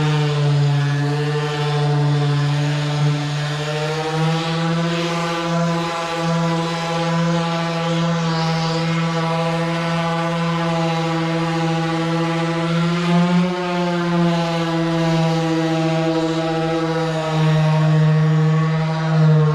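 Dual-action orbital polisher running with a steady hum, its pitch dipping slightly twice, as it works polish into an aluminum fuel tank to take out the tiger stripes.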